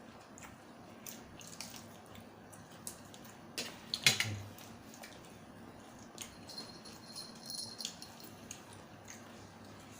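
Eating at the table: scattered small clicks of food and utensils, with a louder clatter about four seconds in.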